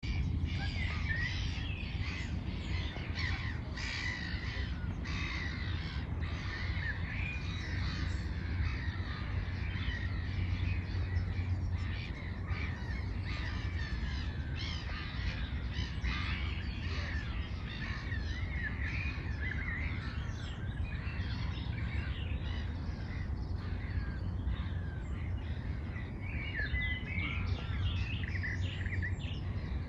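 Several birds chirping and calling over and over, with a steady low rumble underneath.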